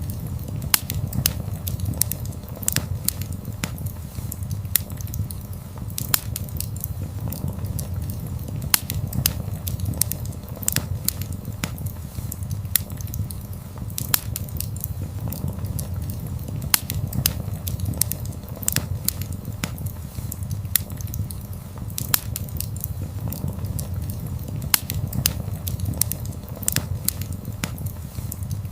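Wood fire burning with a low steady rumble and frequent, irregular sharp crackles and pops.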